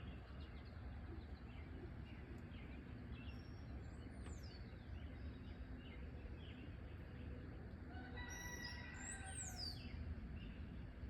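Birds chirping in a morning chorus, with two high, falling whistled calls, one about four seconds in and one near nine seconds. A rooster crows again about eight seconds in, over a steady low background rumble.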